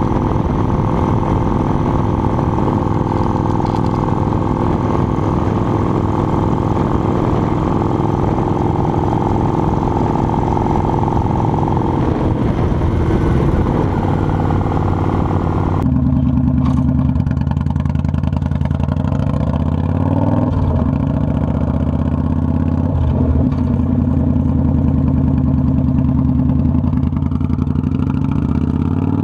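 Motorcycle engine running steadily under way, with rushing noise over it. About halfway through the sound changes suddenly: the hiss drops away and the engine note comes through deeper and clearer, rising and falling a little with the throttle.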